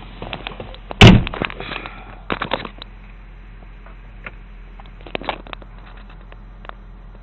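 W-engine car idling steadily through an aftermarket SUXON muffler, a low even hum. A loud sharp thump about a second in, and a few bursts of clicks and knocks about two and five seconds in.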